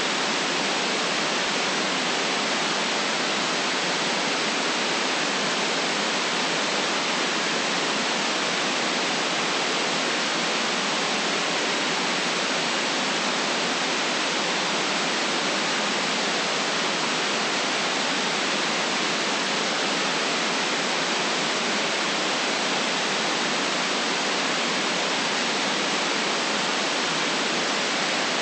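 Steady white noise for sleep: an even, unchanging hiss with no deep bass.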